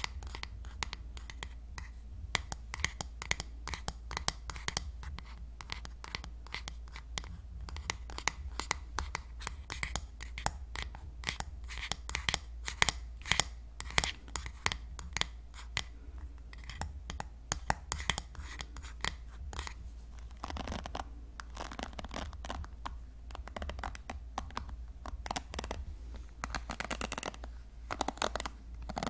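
Hairbrush bristles scratching in quick, repeated strokes, over a steady low hum.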